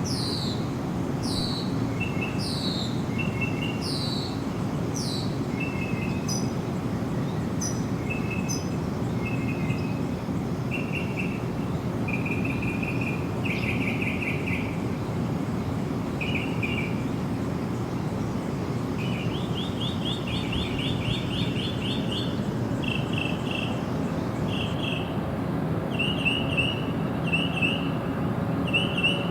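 Birds singing: a run of falling whistled notes about once a second at first, then short chirps, a fast trill about two-thirds of the way in, and repeated short notes near the end, over a steady low background noise.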